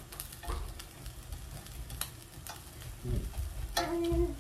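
Egg-battered Korean zucchini slices sizzling in a frying pan, with a few clicks and scrapes as a spatula and chopsticks turn them. Near the end comes a brief held high tone.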